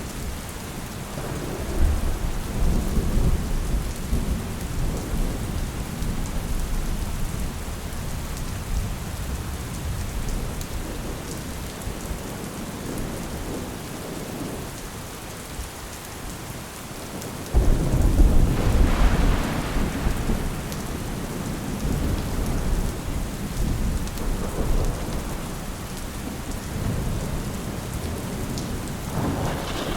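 Steady rain with rolling thunder: a rumble swells about two seconds in and fades over several seconds, a sharper, louder clap and rumble comes a little past halfway, and another rumble builds near the end.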